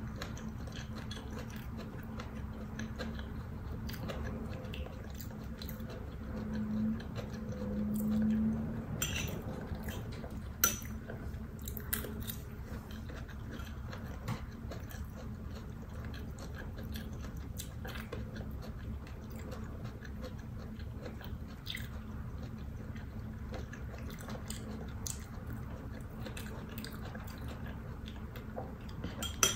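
A person chewing mouthfuls of cauliflower fried rice, over a steady low hum. A few sharp light clicks of a metal spoon against the plate come about eleven and twelve seconds in and again at the end, with a brief louder low hum around seven seconds in.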